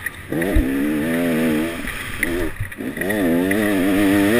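Enduro motorcycle engine revving hard under the rider's throttle, its pitch rising and falling through gearchanges. The revs drop away briefly about two and a half seconds in, then climb again.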